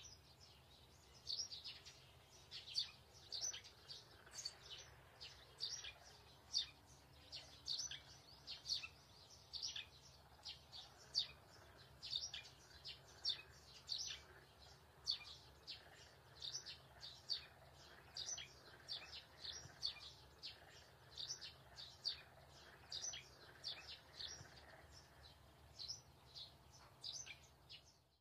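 Small birds chirping over and over, two or three short high chirps a second, over a faint steady low hum.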